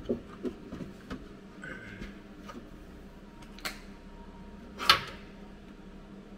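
A few scattered knocks and clinks, the loudest about five seconds in, over a steady low hum: tools and metal being handled.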